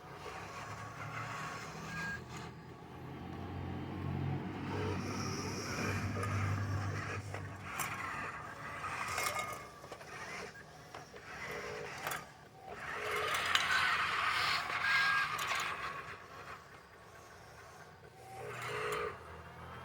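Dump truck running, a low engine rumble with scraping and rattling that swells and fades several times, loudest about two-thirds of the way through.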